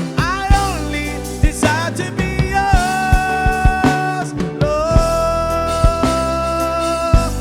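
Gospel worship band music: drums and bass under a sliding melodic lead line that holds two long notes in the second half.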